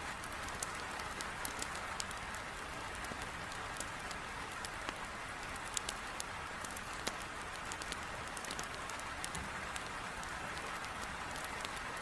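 Heavy rain beating steadily against a window, with a wood fire in a fireplace crackling over it in frequent sharp pops and snaps.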